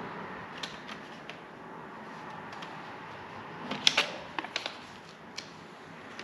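Light clicks and taps of hand work on a sheet-metal patch being fitted, with a quick cluster of sharper clicks about four seconds in, over a steady low hiss.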